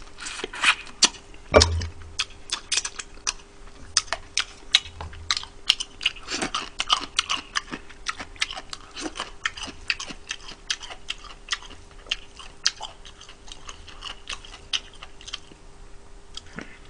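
Close-miked eating: biting and chewing fried chicken, a quick, irregular run of crisp crunches and mouth clicks, with a faint steady hum underneath.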